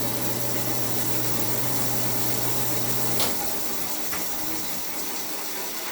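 2002 Central Machinery 14-inch bandsaw running with a steady hum. About three seconds in it is switched off with a click, and the motor hum stops while the blade coasts down, fading.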